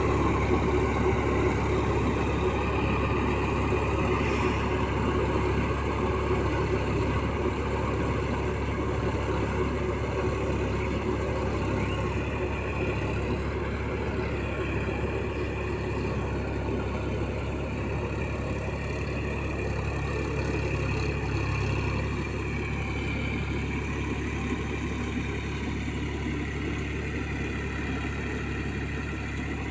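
Massey Ferguson 9000 tractor's diesel engine running steadily while puddling a muddy field, gradually getting quieter.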